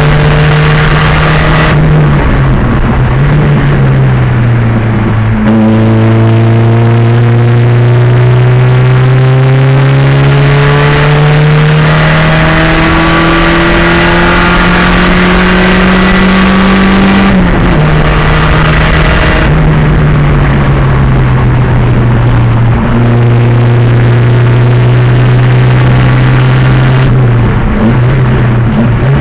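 1987 Pontiac Fiero's turbocharged 2.0-litre engine running hard on track, its pitch climbing slowly for long stretches and dropping sharply about two, five and seventeen seconds in and again near the end, as the car lifts and changes gear.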